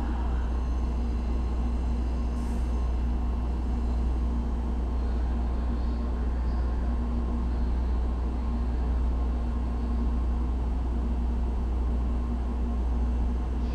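Steady low hum of Shinkansen bullet trains standing at the platform, with an even drone and a steady mid-pitched tone that holds without change.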